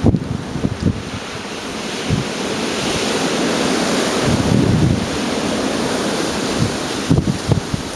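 Gale-force wind gusting hard, swelling to a peak about halfway through and easing a little. Gusts buffet the microphone in low thumps near the start and again near the end.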